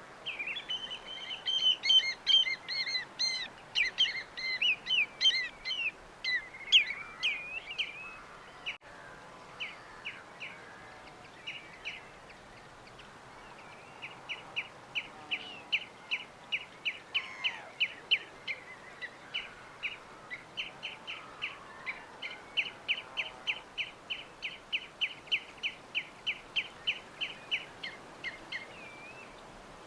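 Small birds chirping and twittering, several calls overlapping in the first several seconds. Later one bird repeats a short high chirp about two or three times a second for most of the rest, over a faint steady background hiss.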